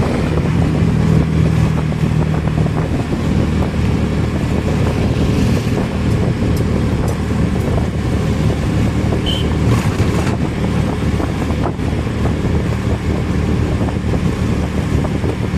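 Car on the move: a steady engine and road rumble, with some wind noise.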